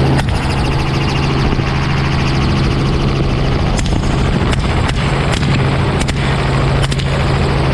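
Rifle shots fired from a hovering helicopter at feral hogs: one shot just after the start, then a quick string of six or seven from about four seconds in, over the helicopter's steady rotor and engine drone.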